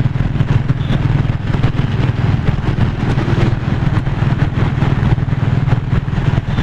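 Royal Enfield Classic 350's single-cylinder engine running steadily while riding, with road noise.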